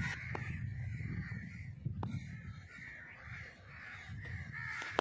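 A bird calling over and over in short, harsh calls, over a low outdoor rumble.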